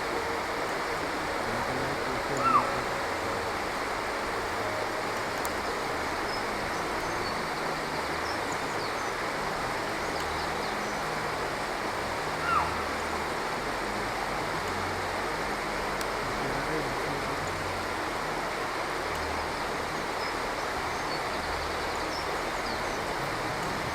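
Steady rush of flowing water, with two short high chirps, one about two and a half seconds in and another about ten seconds later.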